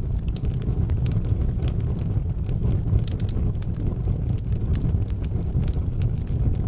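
Fire burning in an outdoor fireplace: frequent sharp crackles and pops over a steady low rumble.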